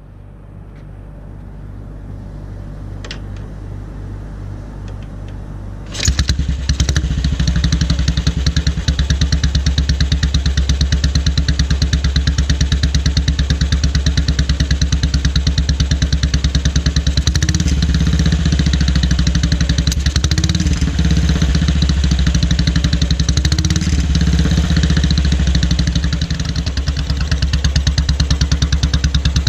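Horex Regina 350 single-cylinder four-stroke engine idling through short open silencers with no decibel restriction, an even, steady beat. It is quieter at first and gets suddenly much louder about six seconds in, with three brief blips of the throttle in the middle.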